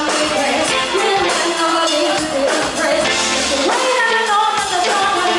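Live party band playing a song, with a singing voice over the music.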